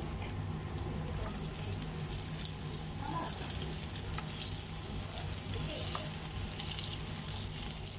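Egg-and-flour battered cauliflower florets frying in hot oil in a pan: a steady sizzle with fine crackling.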